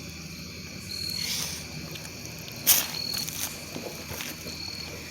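Night chorus of crickets outdoors: a steady high hum with a few short, high chirps spaced through it, and one sharp burst of noise about halfway through.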